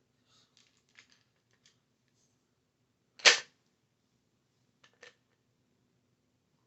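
Light clicks and taps of small objects being handled and set down, with one sharp, loud clack about three seconds in.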